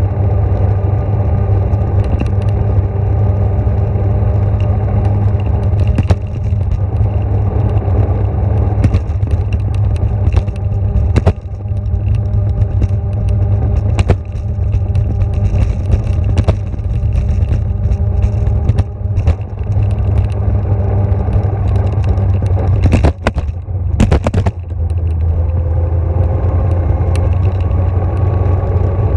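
A vehicle running steadily, with a low hum and scattered clicks and rattles.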